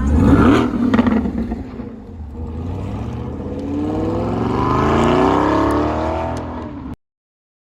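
Car engine revving loudly, then accelerating with a steadily rising pitch; the sound cuts off abruptly near the end.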